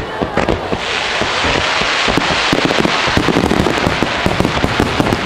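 Aerial firework shells bursting in quick succession, a dense run of bangs close together, with a hiss swelling about a second in.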